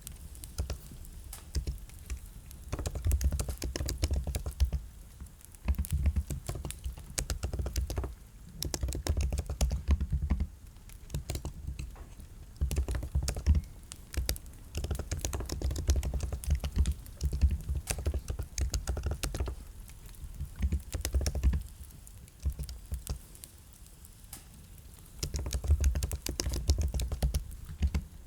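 Typing on a computer keyboard in bursts of rapid keystrokes, each run lasting one to several seconds, with short pauses between runs.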